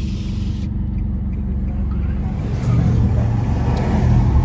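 Car engine and road rumble heard from inside the cabin, growing louder about two-thirds of the way through.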